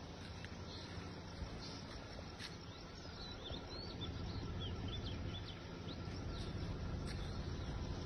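Outdoor ambience: a steady low rumble and hiss, with a small bird chirping in a string of quick high calls through the middle.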